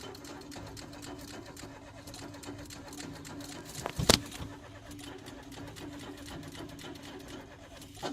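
Citroën C1 with the ignition key being turned: a steady electrical hum and a sharp click about four seconds in, with a smaller click near the end. The engine does not crank or fire, the no-start fault the owner blames on the fuel pump or filter.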